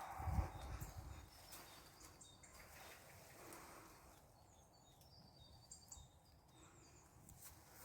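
Faint birdsong outdoors: short high chirps repeated in quick trills several times, over a faint background hiss, with a low rumble in the first second.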